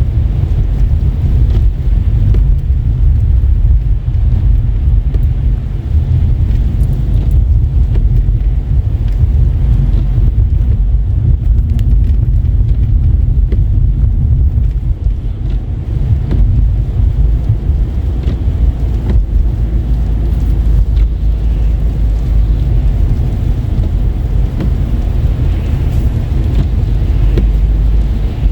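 Car driving on a wet, slushy road: a steady, loud low rumble of tyres and engine.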